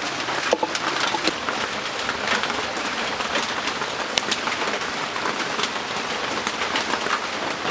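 Steady heavy rain, with many small drops ticking on a surface.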